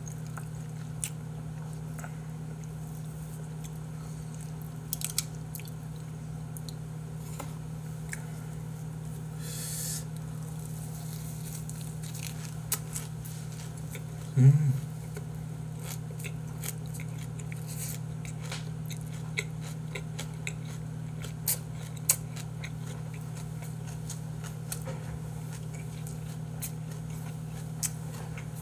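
Close-miked chewing of a mouthful of a leaf wrap of boiled pork and buckwheat noodles: wet squelching and smacking with scattered small clicks, over a steady low hum. One short louder sound comes about halfway through.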